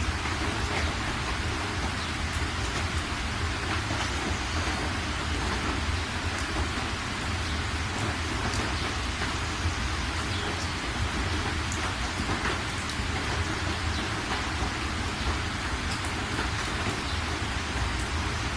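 Steady rain falling, with scattered sharp drop ticks over a dense, even wash and a constant low rumble underneath.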